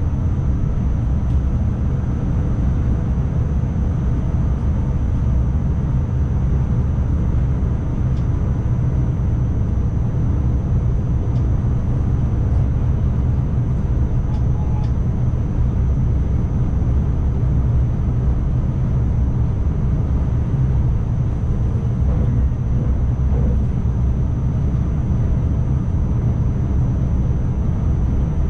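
Steady low rumble of an ICMm electric multiple unit running on the line, heard from inside the driver's cab, with a faint high-pitched whine above it.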